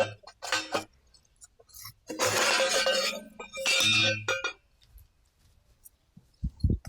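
Clinking and rattling of hard objects, likely metal, being handled: a few sharp knocks, then two longer rattling stretches about two and about three and a half seconds in.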